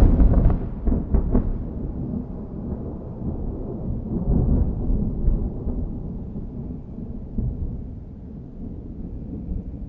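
Thunder: a close clap with a few sharp cracks in the first second and a half, rolling into a long low rumble that slowly dies away.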